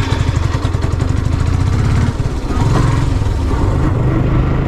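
Motorcycle engine running as the bike pulls away, its pitch stepping up about halfway through, over a steady rush of wind on the helmet-mounted camera's microphone.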